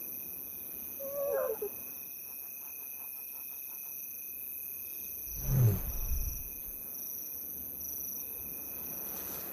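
Lioness giving a low, soft contact call about halfway through, the signal to her cubs that it is safe to come out. A short, higher wavering call comes about a second in, over a steady chirring of insects.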